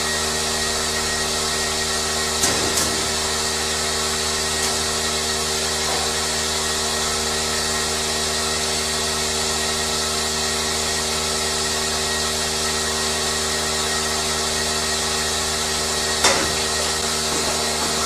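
Steady machine drone with a constant hum and hiss, broken by a few brief clicks or knocks, about two and a half seconds in and again near the end.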